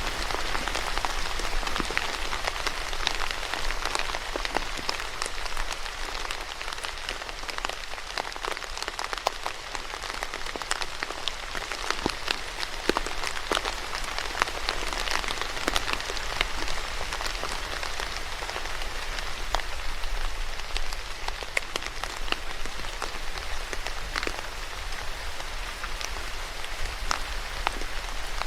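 Steady rain falling, with a constant hiss and many distinct drops ticking sharply on a surface.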